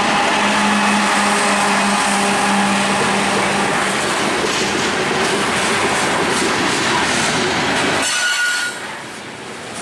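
Freight train passing at close range: a steady, loud rolling noise of wheels on rail, which drops off sharply about eight seconds in.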